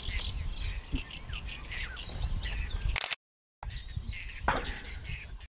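Small birds chirping and calling over a low rumble. The sound cuts out completely for about half a second partway through.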